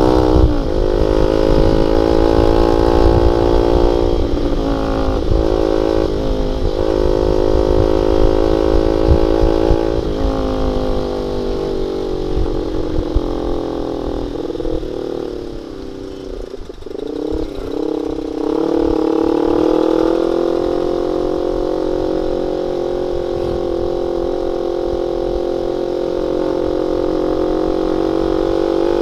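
Honda Sonic 150R's single-cylinder four-stroke engine running through an aftermarket CLD X Monster exhaust with a half baffle. The engine note is fairly steady, dips about halfway through, then picks back up and holds.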